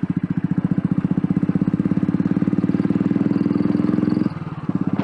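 Royal Enfield Bullet's single-cylinder engine running under way, a fast, even beat of firing pulses. About four seconds in the engine note briefly drops off, then picks up again.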